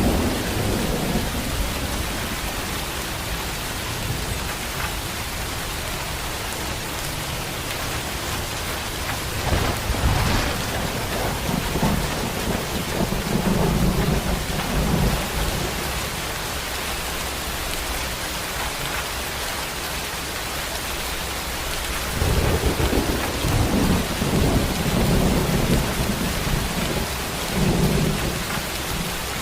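Heavy rain falling steadily, with long rolls of thunder rumbling underneath, once about ten seconds in and again from about twenty-two seconds in.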